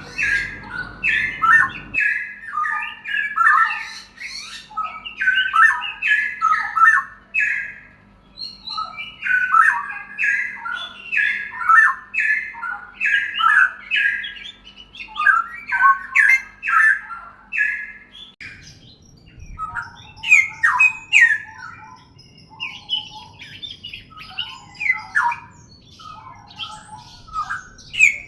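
Songbirds singing in quick runs of short, falling chirps. About 18 seconds in they change to sparser, more varied calls.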